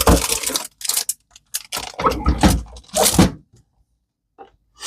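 Kitchen handling noises while preparing food: a run of about five short rustles and knocks over the first three and a half seconds, likely from packaging and utensils as cheese is got ready to add to the salad.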